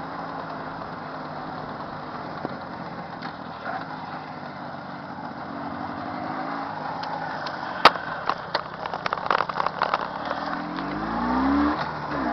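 Jawa 638's warmed-up two-stroke twin engine running steadily, rising in revs near the end. A sharp knock comes about eight seconds in, followed by a run of clicks and knocks.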